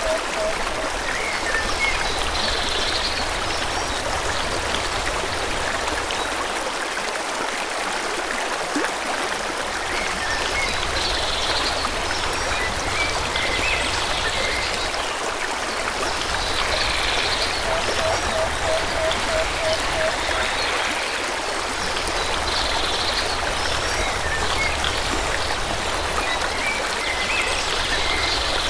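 Forest stream flowing steadily, with birds chirping over it in short high calls every few seconds. A little past halfway, a quick run of about eight low, even notes.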